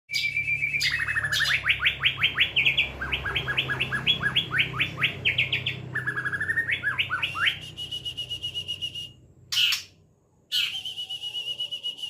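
White-rumped shama (murai batu) singing in the 'trotol' style: fast runs of repeated sweeping notes, about eight a second, between long high steady whistles, with two short breaks near the end.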